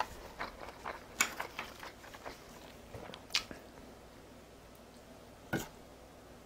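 A person chewing food close to the microphone: soft wet mouth clicks and smacks, most of them in the first couple of seconds, then a few single sharp clicks.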